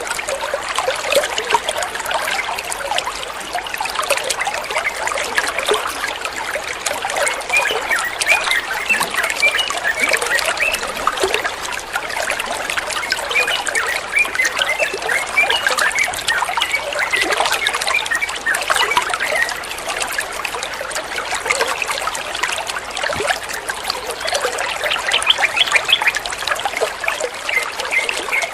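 Water trickling and bubbling steadily, a continuous flow with many small gurgling splashes.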